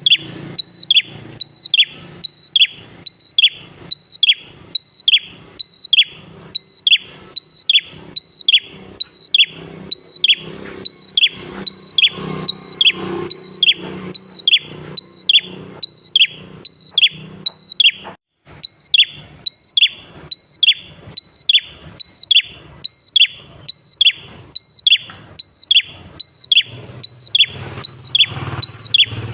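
A prenjak klawu (a prinia) singing in a fast, unbroken series of the same short whistled call, about one and a half a second, each note starting high and dropping sharply. It breaks off for a moment a little past halfway and then carries on.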